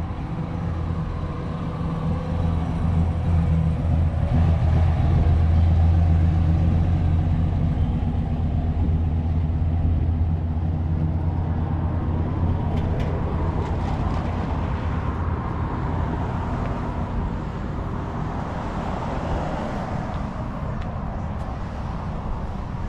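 A car engine running with a low, steady note. It grows louder over the first several seconds, then slowly fades.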